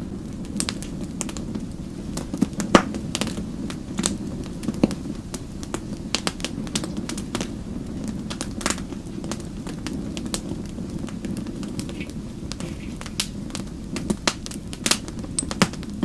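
Wood fire crackling: frequent irregular pops and snaps, one sharper pop about three seconds in, over a steady low rush of burning flames.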